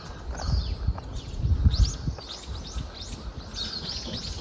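Birds chirping in a run of short, quick falling calls, over a low, uneven rumble.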